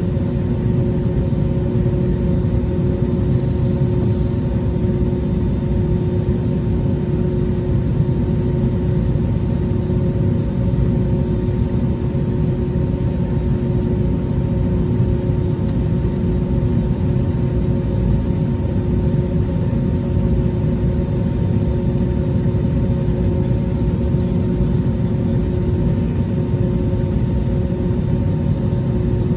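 Airbus A321neo jet engines and airflow: a steady, unchanging rumble with a constant hum running through it.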